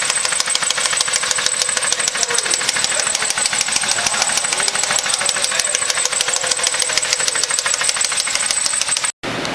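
Chrysler 2.7 V6 engine running with a rapid, even ticking from the valvetrain, the noise of a collapsed hydraulic lifter with a loose plunger. The sound cuts off suddenly near the end.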